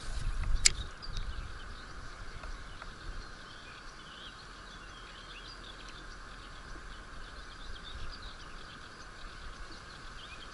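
Small birds chirping in the background, many short high chirps, over a steady outdoor noise, with one sharp click less than a second in.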